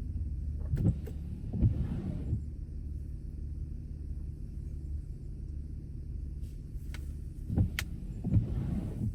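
Car driving, with a steady low road-and-engine rumble. A few short knocks and rattles come about a second and two seconds in, and again near the end.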